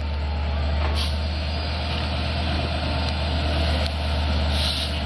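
Standing diesel passenger train idling with a steady low hum. Short hisses of released air come about a second in and again near the end.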